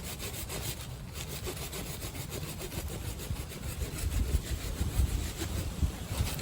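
Hand saw cutting through a tree branch with steady, even back-and-forth strokes. Low rumbles of wind on the microphone come in about two-thirds of the way through.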